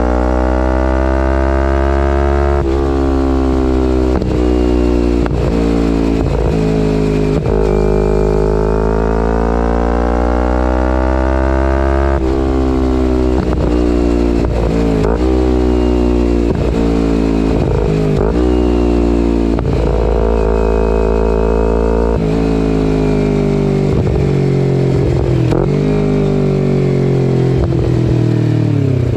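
Kawasaki Ninja 250R parallel-twin engine through a full Graves race exhaust, ridden under load: its pitch climbs steadily, drops sharply three times as if on upshifts, and dips briefly again and again between them.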